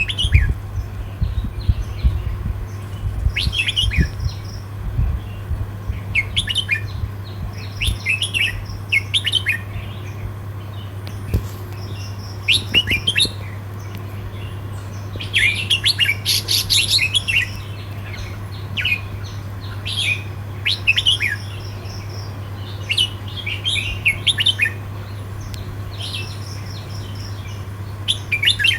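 Red-whiskered bulbul singing in short, quick phrases repeated every second or two, with one longer phrase midway, over a steady low hum.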